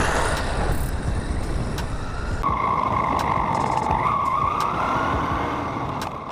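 Brushless electric motor of a 1/10-scale Redcat Tornado EPX Pro RC buggy on a 3S battery running at speed, over a steady rushing noise. About two and a half seconds in, a high motor whine sets in and wavers slightly in pitch.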